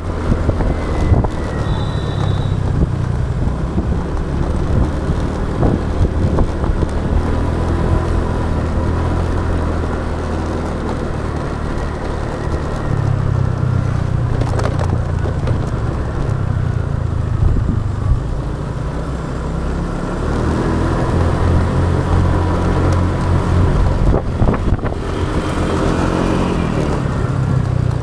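Motorbike on the move: its engine running and changing pitch with speed, rising near the end, under the rush of riding wind and passing traffic.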